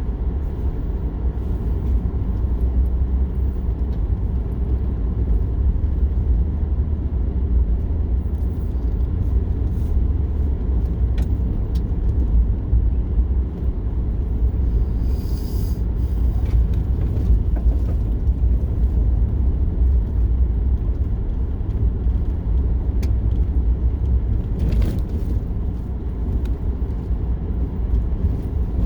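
Steady low road rumble of a car being driven, heard from inside the cabin, with a few faint ticks and a brief hiss about halfway through.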